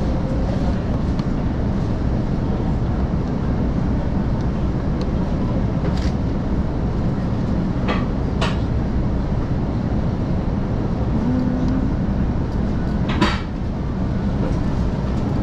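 Cabin noise of a KiHa 185-series diesel railcar running very slowly: a steady low rumble of engine and running gear, with a few short sharp clicks.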